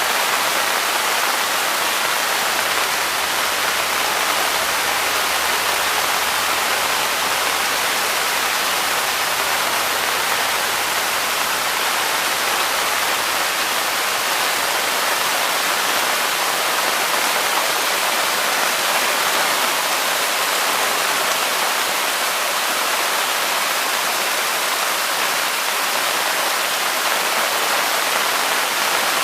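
Waterfall in full flow in heavy rain: a steady, unbroken rush of falling water with rain mixed in.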